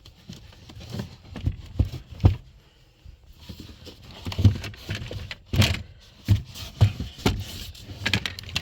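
Irregular knocks, clicks and scrapes of hands and tools working the bottom panel of a trunk speaker-box enclosure loose, with a sharper knock a couple of seconds in and another about halfway through.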